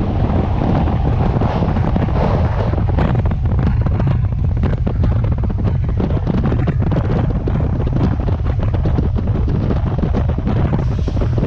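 RER D commuter train running along the track, a steady low rumble with dense clicking and rattling, and wind buffeting the microphone.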